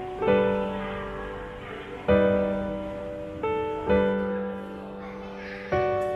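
Background piano music: slow, sustained chords struck about every second or two, each ringing and fading before the next.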